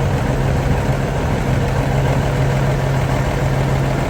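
Diesel semi-truck engine idling steadily with a deep, even hum.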